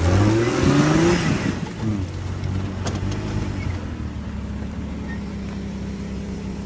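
Jeep Cherokee XJ engine revving up for about a second under load as the Jeep climbs a rock ledge on a trail crawl, then dropping back to run steadily at low revs.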